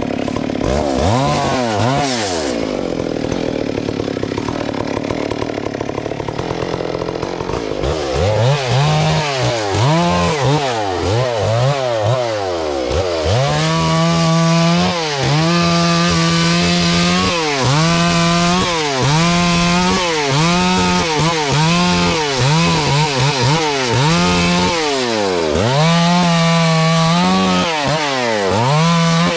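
Two-stroke chainsaw engine revving up and down over and over. After about eight seconds it settles into holding a high, steady pitch for a second or two at a time between sharp drops and rises.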